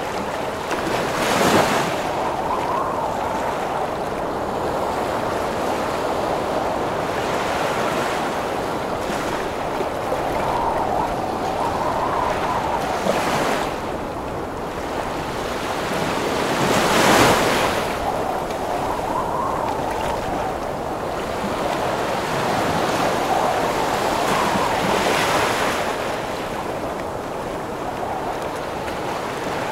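Heavy ocean waves crashing and washing continuously under gusting storm wind, with louder wave surges about every few seconds, the biggest near the start and just past the middle.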